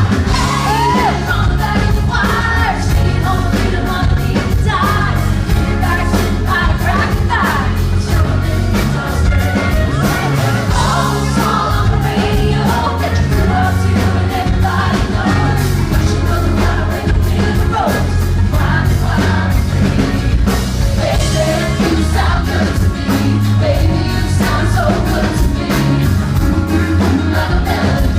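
Live pop-country band performance with a woman singing lead over a steady drum beat and bass, loud and full.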